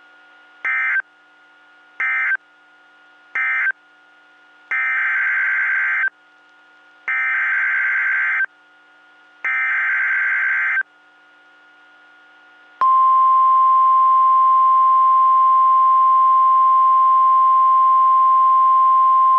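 NOAA Weather Radio Emergency Alert System signalling: three short SAME data bursts ending one warning, then three longer SAME header bursts announcing the next. These are followed by the steady, loud single-pitch 1050 Hz weather alert tone, which starts after a short pause and holds.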